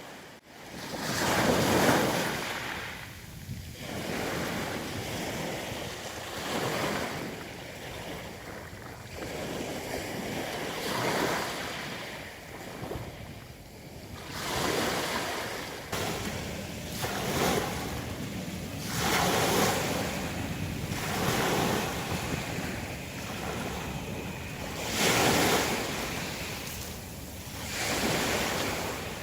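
Sea surf breaking on a pebble beach, each wave swelling into a hiss and then ebbing, about every two to three seconds.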